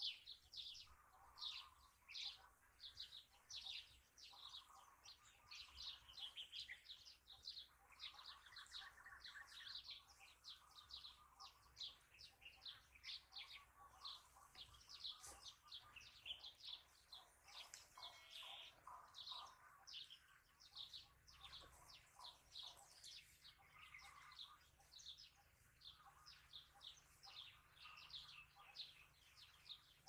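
A flock of small birds chirping faintly and continuously: many short high notes overlap, several a second, with lower calls mixed in.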